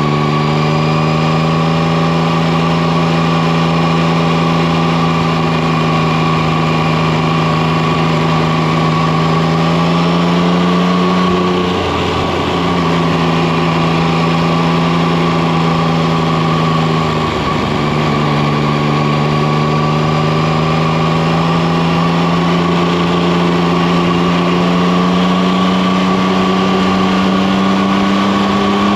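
Yamaha Tracer 9 GT's 890 cc inline three-cylinder engine running at a steady cruising pace, its note climbing slowly, with two brief dips, about twelve and eighteen seconds in. Steady wind and road rush lies underneath.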